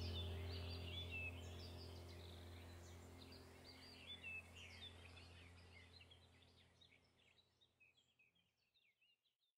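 Small birds chirping in quick, scattered calls over a low steady hum, the whole sound fading out gradually until it is gone near the end.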